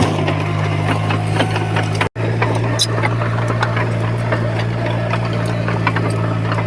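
Heavy construction machine's diesel engine running steadily, with scattered clicks and clanks over it. The sound cuts out for an instant about two seconds in.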